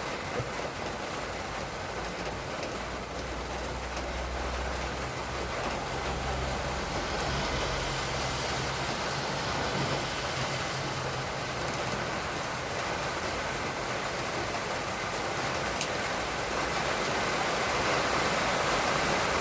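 Heavy rain pouring down steadily, slowly growing louder.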